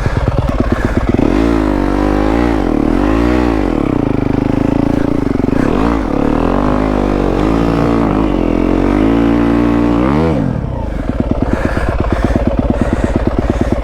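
Yamaha WR250F's single-cylinder four-stroke engine revving up and down in repeated bursts as the bike struggles for grip on slippery snow. About ten seconds in it drops to a slow, low-rpm chug.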